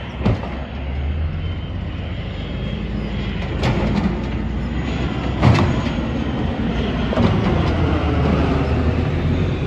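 Garbage truck running steadily, with several loud metal clanks and bangs; the loudest comes a little past the middle.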